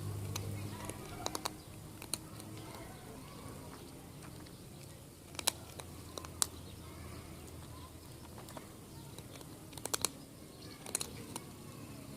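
A cat eating, its chewing heard as sharp, scattered clicks, sometimes two or three in quick succession, every second or two.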